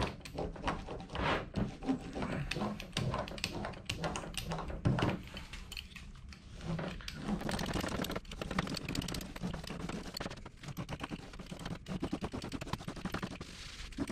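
Hands pressing and rubbing carpet down onto a contact-cemented boat hatch lid: a dense, irregular run of light taps and scratchy clicks.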